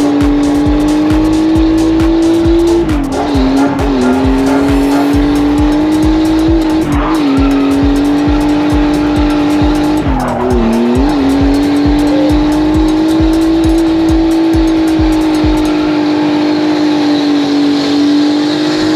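Drift car's engine held at high, near-constant revs while the rear tyres spin and squeal through continuous donuts. The revs dip briefly three times, then come back up.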